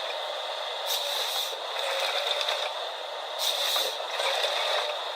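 Forestry harvester at work: a steady mechanical clattering and scraping noise that swells louder a couple of times.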